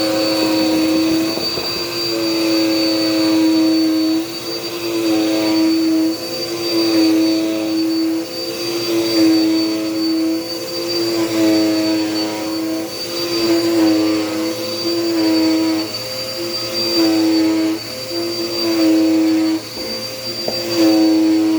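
Dirt Devil Power Max vacuum cleaner running with a steady motor whine that dips briefly in pitch and level about every two seconds.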